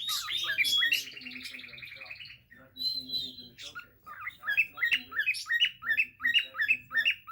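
Pet cage birds chirping and calling: a buzzy trill in the first two seconds, then from about four seconds a quick run of repeated rising chirps, about four a second.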